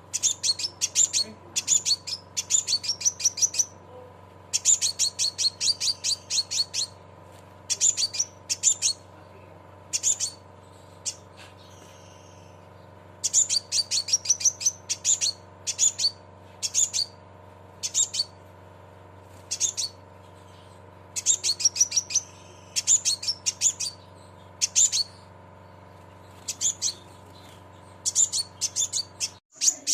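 Scarlet minivet (sepah raja) giving rapid 'cret cret' chirps, high and sharp, in quick runs of several notes with short pauses between runs. A steady low hum runs underneath and cuts off just before the end.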